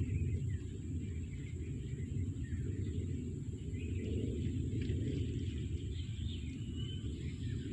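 Outdoor ambience: birds chirping and whistling over a steady low rumble.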